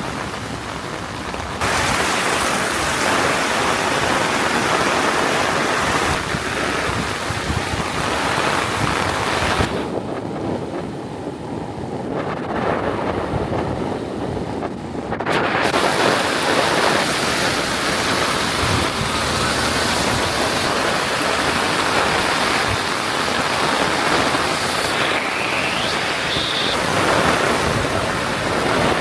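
Heavy rain pouring steadily in a downpour, a dense even hiss; the hiss turns duller for about five seconds midway.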